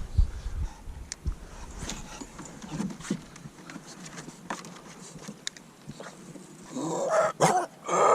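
A bulldog making a loud, rough, breathy sound for about two seconds near the end, after a stretch of faint clicks and knocks.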